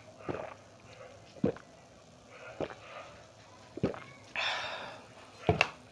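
Close-miked eating of crisp fried samosa: five sharp crunchy bites or chews spaced about a second apart, with a short breathy rush of air just before the last one.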